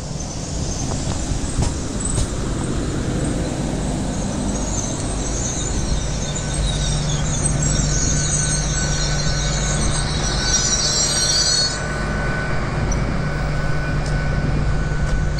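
Train running on the rails, with its wheels squealing high and shrill for several seconds before the squeal cuts off. A steady rumble and low hum run beneath it.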